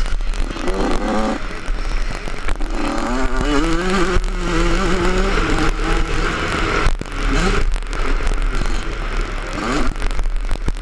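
Yamaha 85cc two-stroke motocross bike engine heard on board while riding a dirt track, revving and easing off over and over, its pitch climbing with each pull and dropping back several times.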